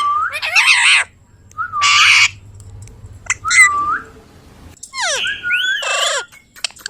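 Indian ringneck parrot giving a string of harsh squawks, some with gliding whistle-like notes, about four calls separated by short pauses.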